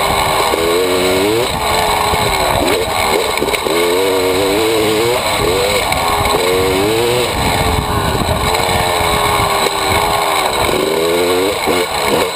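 TM EN 300 two-stroke enduro motorcycle engine being ridden hard, its pitch rising and falling every second or two as the throttle opens and closes, with wind rushing over the bike-mounted microphone.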